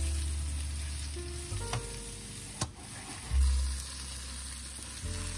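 Potato wedges sizzling as they fry in oil in a pan, stirred and turned with a spatula, with a sharp click about two and a half seconds in. Background music with held notes and a heavy bass plays over the sizzling.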